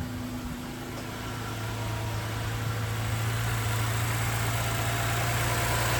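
Toyota Sienna's 3.5-litre V6 engine idling steadily, growing gradually louder.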